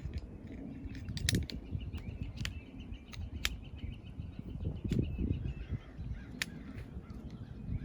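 Faint, short bird chirps over scattered clicks and taps, with a low rumble underneath.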